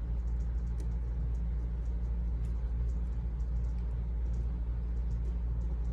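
A steady low hum, with faint, irregular light scratches and ticks of a marker colouring through a paper stencil.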